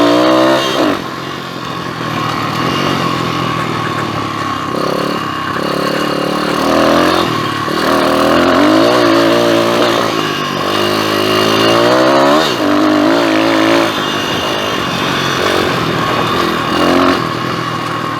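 PitPro 140 pit bike's single-cylinder four-stroke engine running under load while riding, its pitch rising and falling again and again as the throttle is opened and closed.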